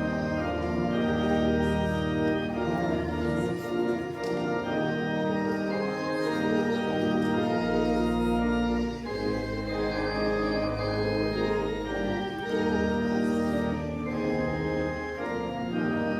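Church organ playing slow, held chords over long low pedal notes.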